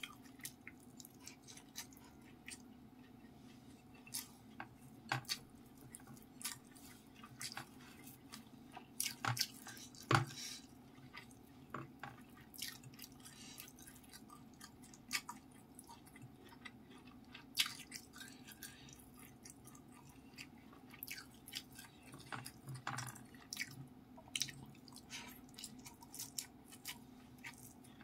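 Close-miked wet chewing and smacking mouth clicks of someone eating rice with fried anchovies and omelette by hand, many short sharp clicks over a faint steady hum.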